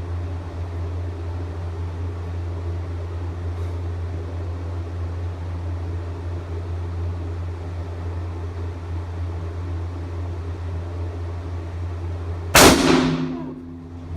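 A single gunshot from a U.S. M1917 Enfield .30-06 bolt-action rifle fired indoors, about twelve and a half seconds in, loud, with its echo dying away over a second or so. Before it there is a steady low hum of ventilation.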